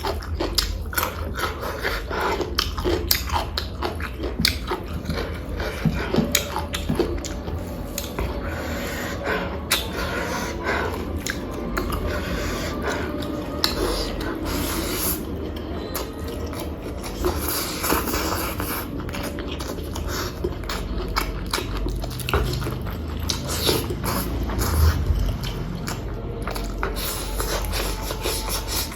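Close-miked eating sounds of a person eating pork curry with rice: continuous chewing with many short, irregular mouth clicks and smacks.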